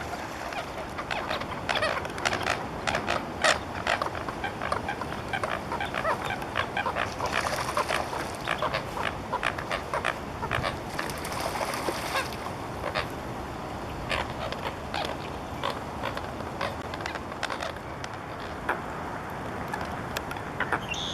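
Water birds calling: a long run of short, quick honking and quacking calls at uneven spacing, thickest in the first half and thinning out later, with wind rumbling on the microphone.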